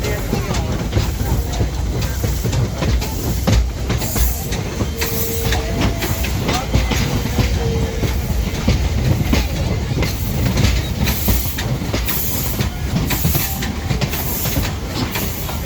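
Heritage steam train running along the track: a steady rumble with a continual clatter of wheels over the rails, and a faint brief squeal near the middle.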